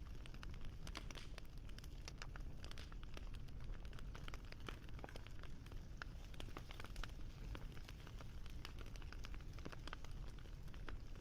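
Wood fire crackling: frequent irregular snaps and pops, several a second, over a steady low rumble.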